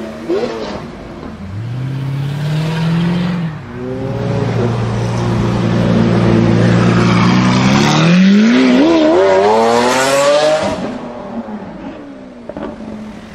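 Lamborghini Aventador's V12 engine accelerating. The note climbs, drops back and holds steady, then climbs sharply to a high pitch about eight to ten seconds in, and fades away.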